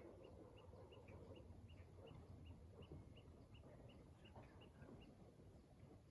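Faint outdoor ambience: a small animal's short high chirp repeated evenly, about three times a second, over a low rumble.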